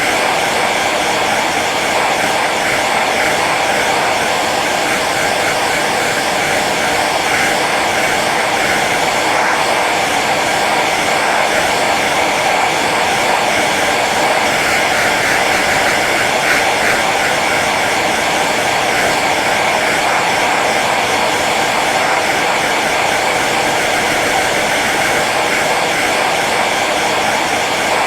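Hair dryer running steadily on its low setting: an even rush of blown air over the motor's whir.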